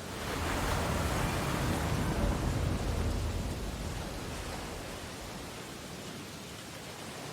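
Ocean surf on a beach: a wave breaks and surges right at the start, then its wash slowly fades away.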